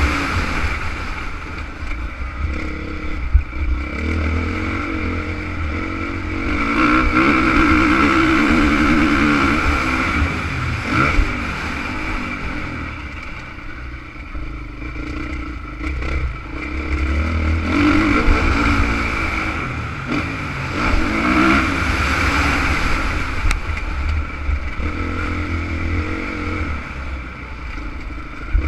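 Honda CRF450 motocross bike's single-cylinder four-stroke engine running hard on a track, its pitch and loudness rising and falling as the throttle is opened and closed.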